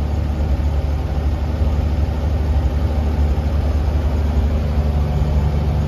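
Vehicle engine idling steadily just after a cold start, the engine still cold, heard from inside the cab.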